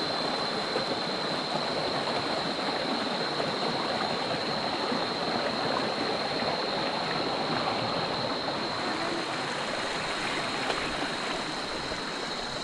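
Stream water rushing and gurgling steadily over rocks, with a thin, steady high-pitched whine running under it.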